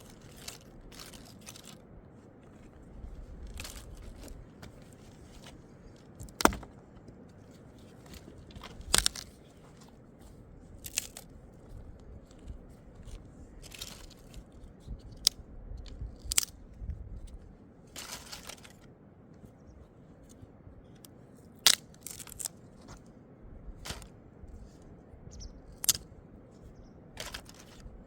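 Irregular crunching, snapping and scraping handling sounds, with a sharp click every second or two and a few louder snaps, over a faint low rumble.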